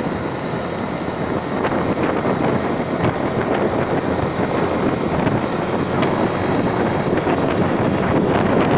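Wind buffeting the microphone over the steady running noise of a moving vehicle, growing gradually louder.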